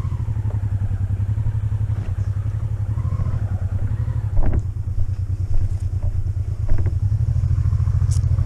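Motorcycle engine running steadily at idle, with a few short knocks partway through.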